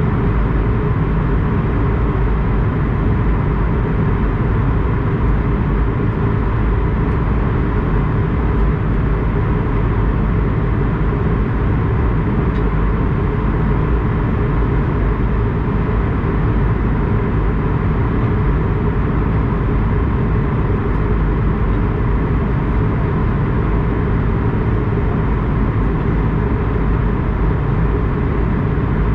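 Steady engine and airflow noise inside the cabin of an Airbus A220-100, its Pratt & Whitney PW1500G geared turbofans running at an unchanging power. The noise is loud and even, mostly low rumble, with no rise or fall.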